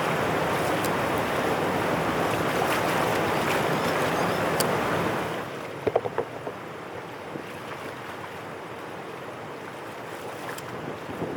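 Water rushing steadily, then dropping sharply in level about five seconds in; after that a quieter flow with a few short splashes and knocks.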